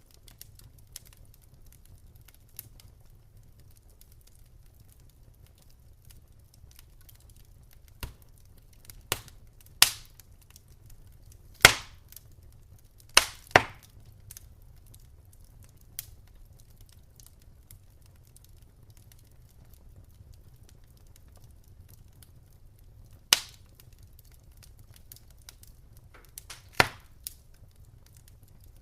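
Wood fire crackling in a fireplace: irregular sharp pops and snaps, a handful of louder ones over a faint low rumble and fine ticking.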